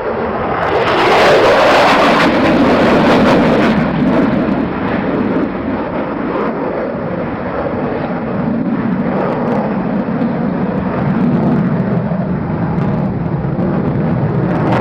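Jet aircraft passing, a loud noise that peaks a second or two in and then holds a little lower.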